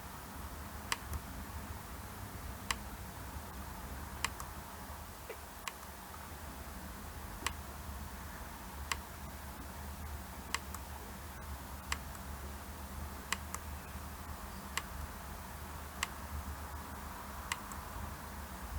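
Button clicks on an LCD touch-screen tester, pressed about once every second and a half to step through test pictures, over a faint steady low hum.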